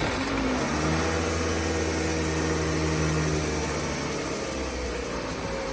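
Toyota Previa engine idling just after starting, a steady hum whose pitch eases slightly lower near the end as the idle settles.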